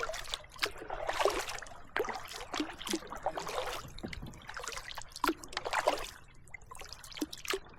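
Kayak paddle strokes in calm water, the blades dipping and splashing about once a second, with water trickling and dripping off the paddle between strokes.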